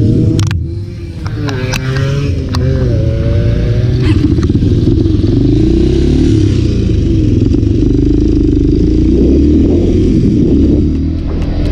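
Off-road motorcycle engine running under varying throttle, its pitch rising and falling, with a brief let-off about a second in.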